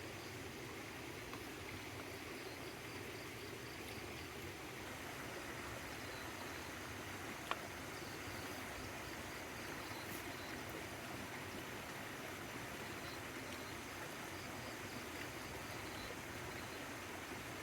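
Steady rushing water noise, with faint high pulsing chirps coming and going and one sharp click about seven and a half seconds in.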